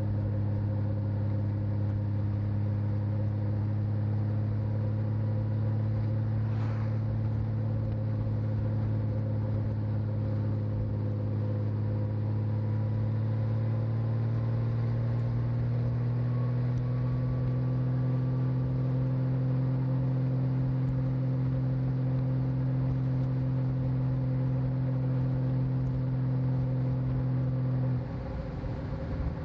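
Honda Valkyrie F6C's 1520 cc flat-six engine running steadily under way, recorded from the rider's back; the engine note climbs slightly about halfway through as it pulls harder, then drops abruptly just before the end.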